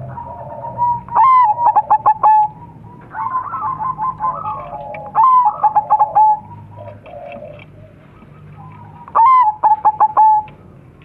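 Crossbred zebra doves (perkutut) cooing in their song. The song is a series of sharp, clipped notes that comes in three loud bouts, about a second in, about five seconds in and about nine seconds in, with softer warbling between the bouts.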